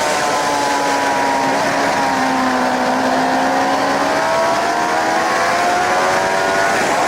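Suzuki GSX-R 750 K7's inline-four engine heard onboard at speed over a steady rushing noise. The engine note falls slowly for about three seconds as the revs come down, then climbs again as the bike accelerates.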